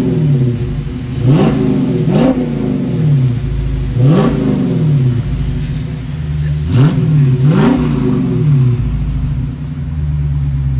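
Dodge Charger 392 Daytona's 6.4-litre HEMI V8 on its stock exhaust, blipped from idle about six times, each rev climbing quickly and falling back to a steady idle.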